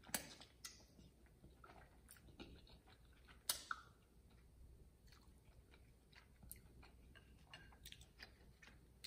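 Faint close-miked chewing of glass noodles and tteokbokki rice cakes: soft wet mouth clicks scattered throughout, with one sharper click about three and a half seconds in.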